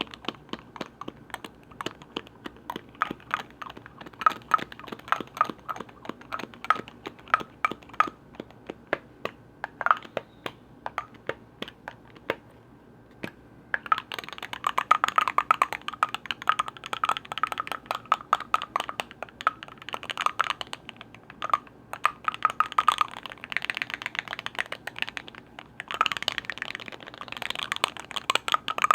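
Tapping and clicking on the hard lids of containers, each tap carrying a short ringing note. The taps are spaced out at first, stop briefly about twelve seconds in, then come back as fast, dense tapping in bursts.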